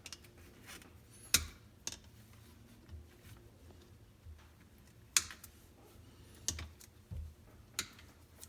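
Irregular sharp clicks and light knocks of hand tools on hoses and fittings as hoses are worked loose, about six in all, the two loudest about a second and a half in and about five seconds in.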